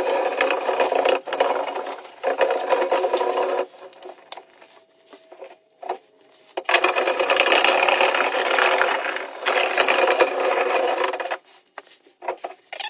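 Scraping and rattling from a clogged dryer vent being cleaned of lint, in two long stretches with quieter pauses between them.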